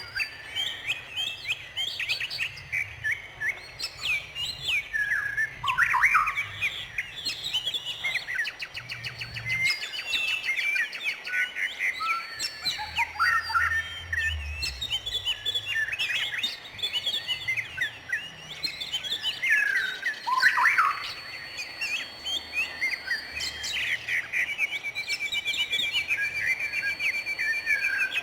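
Several songbirds chirping and calling over one another in quick, sweeping notes. Near the end a rapid, evenly spaced trill runs for a few seconds.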